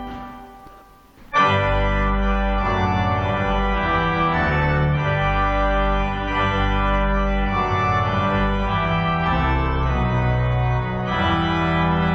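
Organ playing sustained chords with a bass line. The sound fades into a short near-gap at the start, then the full organ comes back in abruptly about a second and a half in and holds, with chord changes about halfway through and near the end.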